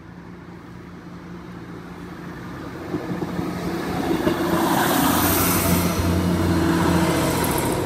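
Class 158 diesel multiple unit approaching and passing over the level crossing, its engine and wheel noise getting louder over the first five seconds and then holding steady.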